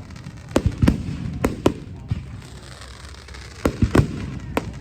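Aerial fireworks shells bursting overhead: a run of sharp booms in two clusters, four in the first two seconds and four more from about three and a half seconds in, over a steady low rumble.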